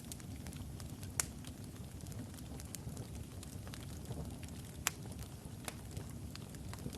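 Wood logs burning in a fireplace: a steady low rumble of the fire with scattered sharp crackles and pops, the loudest about a second in and again near five seconds.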